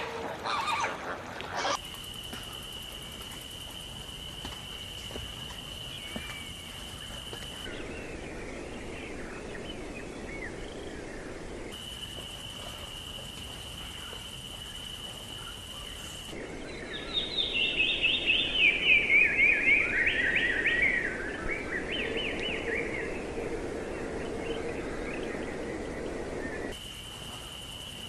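Birds singing and chirping outdoors. One bird gives a loud run of quick repeated notes that steps down in pitch, about 17 to 21 seconds in, and a steady high-pitched whine sounds in several stretches in between.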